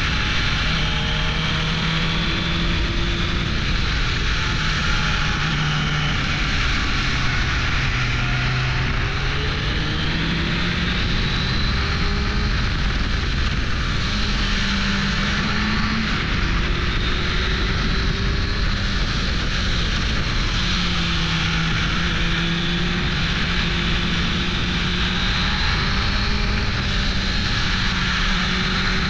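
1998 Suzuki GSX-R 600 SRAD inline-four engine running under way, its note rising and falling gently as the bike rides on. A steady rush of wind noise lies over it.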